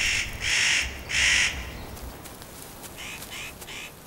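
Spotted nutcracker giving harsh, crow-like calls: three loud ones in quick succession, about half a second each, then three fainter ones near the end.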